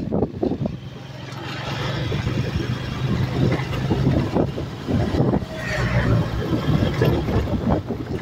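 Honda CG 150 Fan's single-cylinder four-stroke engine running under way, its note growing louder from about a second in as the bike picks up speed, with wind gusting on the microphone.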